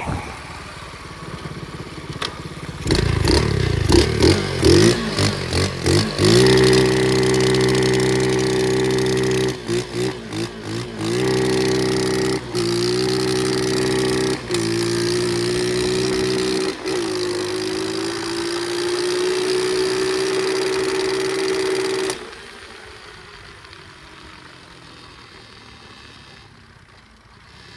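Pit bike's small single-cylinder engine running under throttle, revving up and down with brief dips between revs, then holding a steady high rev. It drops away suddenly about three-quarters of the way through, leaving only faint sound.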